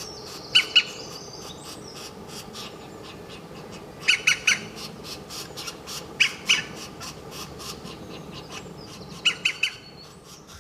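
A bird calling in short, sharp, high notes, given in quick clusters of two or three every two to three seconds, over a steady background hum and fainter rapid ticking.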